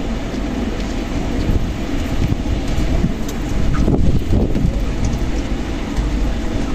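Strong desert wind blowing in gusts, buffeting the microphone with a deep, steady rumble that swells about four seconds in.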